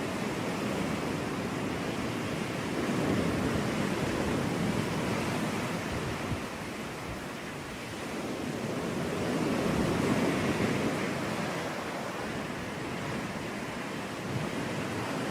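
Sea waves breaking and washing on a beach in a steady surf, swelling twice, at about three seconds in and again near ten seconds.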